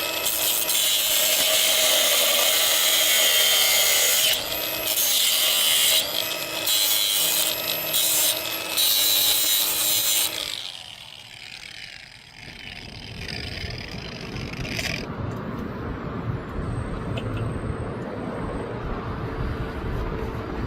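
A handheld power tool runs hard in several bursts, its motor whine stopping and spinning back up about four times, then winds down a little after ten seconds. After that a quieter low rumble fills the rest.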